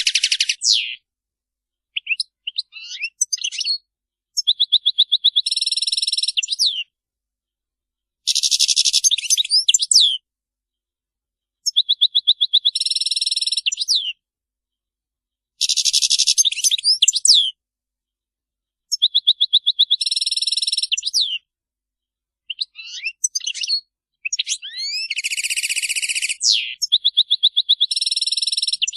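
European goldfinch song: about nine phrases of fast, twittering repeated notes mixed with buzzy, scratchy stretches, each a few seconds long and separated by short silent gaps.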